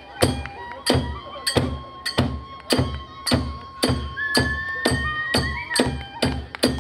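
Kagura hayashi music: a drum and small hand cymbals striking together in a steady beat that quickens, under a flute holding long notes that slides upward about four seconds in.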